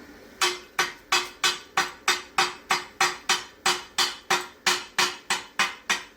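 Chipping hammer striking a steel weld in a steady run of sharp metallic taps, about three a second, each with a short ring: slag being knocked off a 6011 stick-weld bead.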